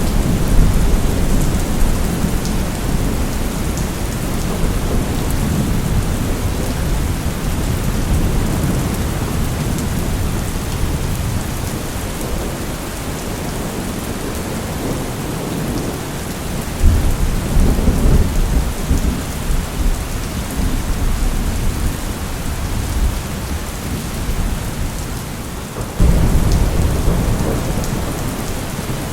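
Steady heavy rain with rolling thunder. Low rumbles come at the start, a sudden thunderclap about 17 seconds in rolls on for several seconds, and another rumble breaks in suddenly near the end.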